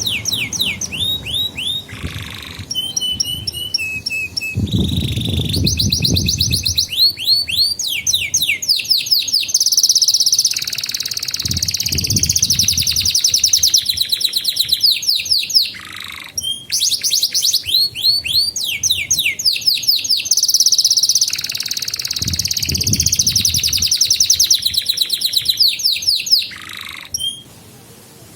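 Domestic canary singing long, fast rolling trills of repeated falling notes, phrase after phrase with brief breaks. The song stops shortly before the end.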